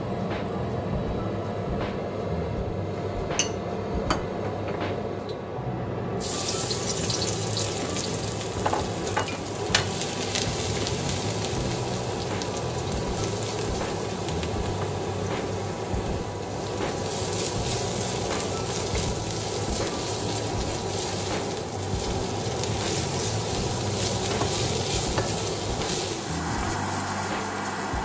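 Chopped garlic, then onion and ginger, sizzling in a stainless steel wok while a wooden spatula stirs and scrapes, with sharp taps against the pan. The sizzle gets brighter and stronger about six seconds in.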